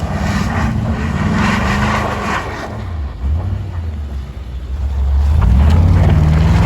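Vehicle engine revving hard while spinning donuts in snow, its pitch rising and falling, louder from about five seconds in.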